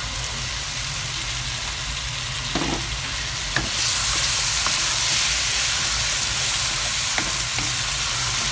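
Wet curry paste frying in oil in a non-stick wok just after tamarind juice is poured in, stirred with a wooden spatula. The sizzling grows louder about four seconds in, and the spatula knocks against the pan a few times.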